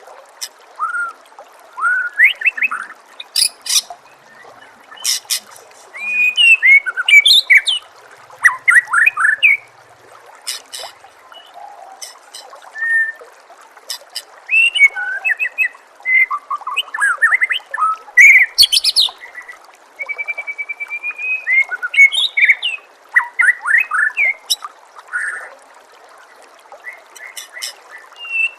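White-rumped shama (murai batu) singing in bursts of varied whistled, sliding notes mixed with sharp clicking notes, with short pauses between phrases, over a steady trickle of running water.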